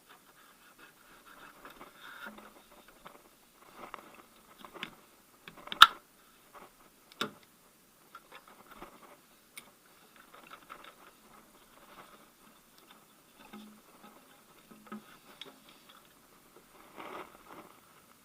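Timing belt being worked off the engine's pulleys by hand: scattered scuffing, rubbing and small clicks. A sharp knock about six seconds in is the loudest sound, with a smaller knock about a second later.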